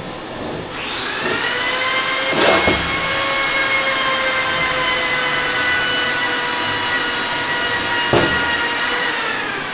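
A motor-driven tool whines up to speed about a second in, runs steadily, and winds down near the end. There are sharp clicks about two and a half seconds in and again near the end.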